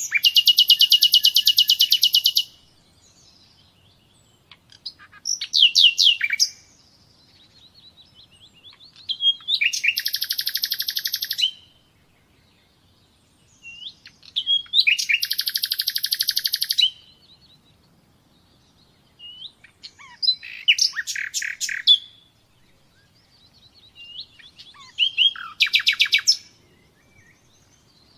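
A songbird singing in separate phrases with short pauses between: three long, rapid, high trills of about two seconds each, alternating with shorter phrases of quick notes.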